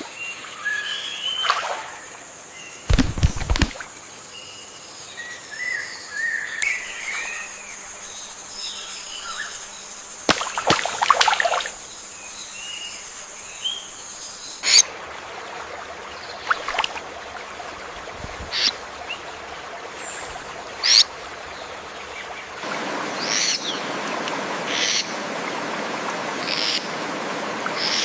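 Rainforest ambience with assorted birds calling and chirping, broken by several sharp clicks or knocks and a low thump about three seconds in. A steady hiss of running water or insects gets louder about two-thirds of the way through.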